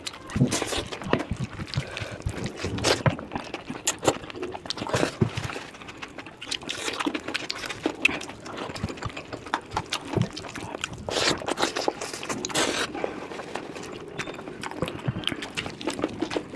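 Close-up wet eating sounds from a curry meal: irregular smacking, clicking and squelching as food is chewed, with a few longer wet slurps near the end.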